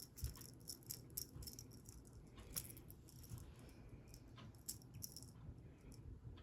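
Faint, irregular light clicks and rattles, several a second and unevenly spaced, over a low steady room hum.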